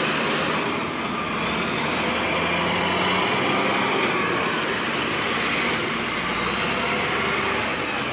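Heavy truck engine running steadily under load. A faint high whine rises and then falls in the first half.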